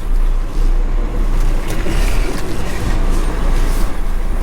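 A car-transporter lorry's diesel engine running with a steady low rumble.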